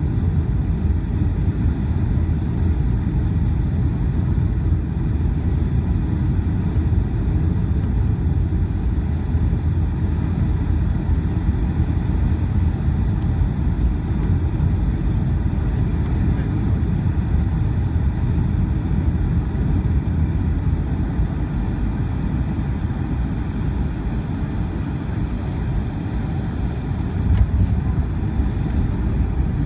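Cabin noise inside a Boeing 757-200 during its landing: a steady, loud low rumble of the engines and airflow, swelling slightly near the end.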